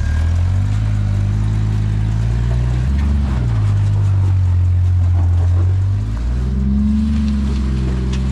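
Off-road vehicle engine running at crawling speed, its pitch rising and falling several times as the throttle is worked.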